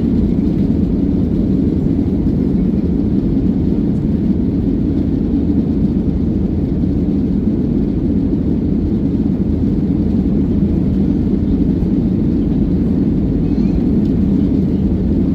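Steady airliner cabin noise heard from a passenger seat: the jet engines and airflow make an even, unbroken low rumble.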